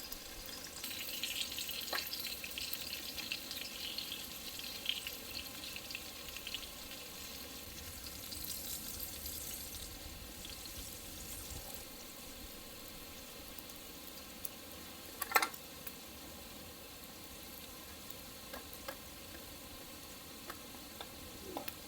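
Food sizzling as it cooks over a fire, an even hiss that is strongest in the first several seconds and then settles, with a few sharp clicks, the loudest about two-thirds of the way through.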